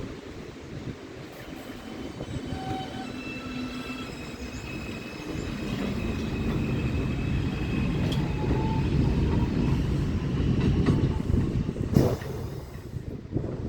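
R142-series subway train running on the line, rumbling louder as it draws near, with steady high-pitched whine tones above the rumble. A single sharp bang about twelve seconds in.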